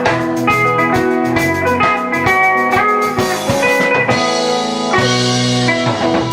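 Rock band playing live: guitar chords and riffs over a steady drum-kit beat, with no singing.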